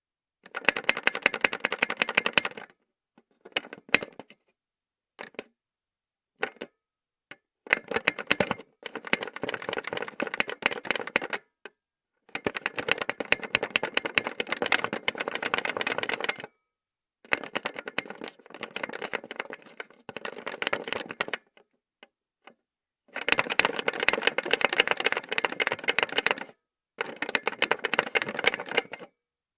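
A 1950 rotary telephone being worked by hand: bursts of rapid mechanical clicking and rattling, each lasting two to four seconds, with a few single clicks in the gaps between them.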